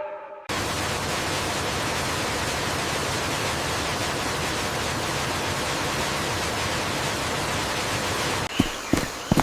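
Steady, even rushing of water that cuts in abruptly about half a second in. Near the end a few sharp clicks or snaps break in.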